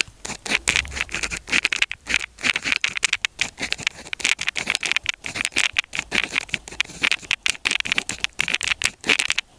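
Pen writing on paper: a quick, irregular run of scratchy strokes as characters are written, which stops near the end.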